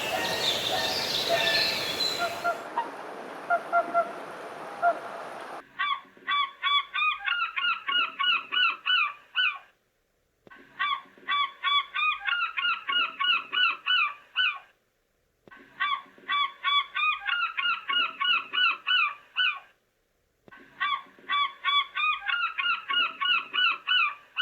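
Rapid honking bird calls, about three a second, in identical four-second runs repeated four times with short silent gaps between them. The first few seconds are only a noisy hiss of ambience.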